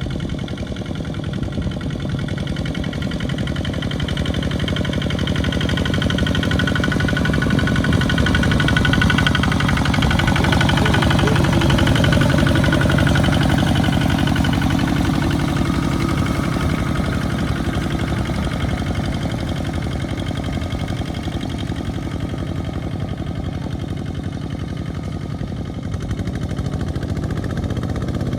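Small farm tractor engine running steadily, growing louder toward the middle and then easing off.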